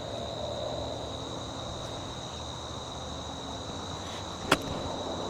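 A golf club striking the ball once, a single sharp click about four and a half seconds in, over a steady high insect buzz.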